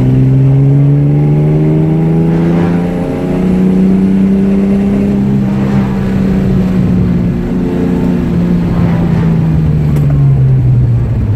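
Jaguar E-type 4.2's straight-six engine pulling along, heard from inside the car. Its pitch climbs over the first few seconds, holds, then eases down slowly near the end as it comes off the throttle.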